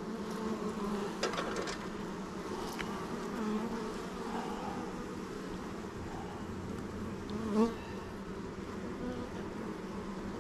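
Honeybees buzzing around an open hive during an inspection: a steady, dense colony hum. About three-quarters of the way through, a brief louder buzz rises over it.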